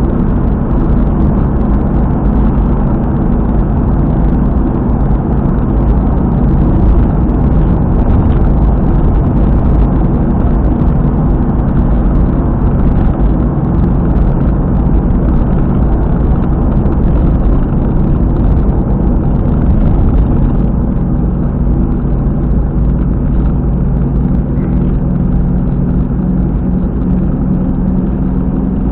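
Car travelling at expressway speed with a loud, steady low drone and rumble from a rear wheel, the "boko-boko" noise of an apparently failed wheel hub bearing.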